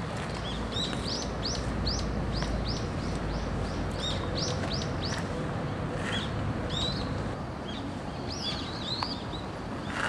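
A bird calling in quick runs of short, repeated chirps, four bursts of them, over a steady low background rumble.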